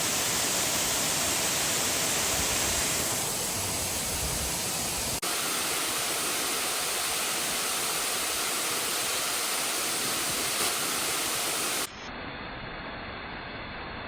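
Waterfall rushing: a loud, steady roar of falling water. About twelve seconds in it cuts abruptly to a quieter, duller steady noise.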